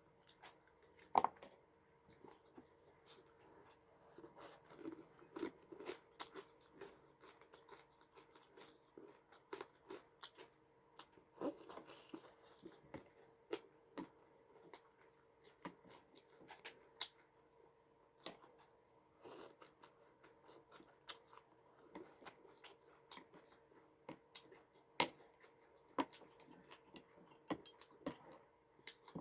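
A person chewing and crunching food close to the microphone, with many short, irregular crisp crunches and clicks.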